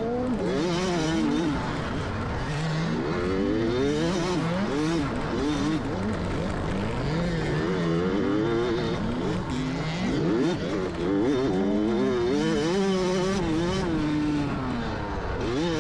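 Dirt bike engine revving hard and easing off again and again, its pitch climbing and dropping every second or two as it accelerates and slows around a motocross track.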